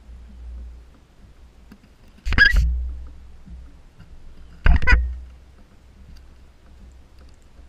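A bird gives two short harsh calls, about two seconds apart, over a low steady rumble.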